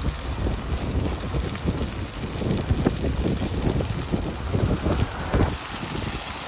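Wildfire burning: a steady rushing roar with many small crackles throughout, and wind buffeting the microphone.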